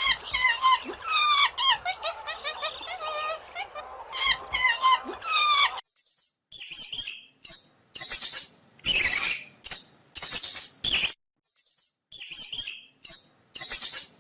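A chorus of birds chirping and warbling. About six seconds in it cuts off abruptly, and a series of short, harsh, hissing calls follows in separate bursts.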